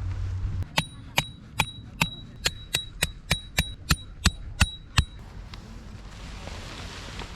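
Hammer striking metal: about a dozen sharp, ringing blows at roughly three a second, stopping about five seconds in. A low hum fades out just before the first blow.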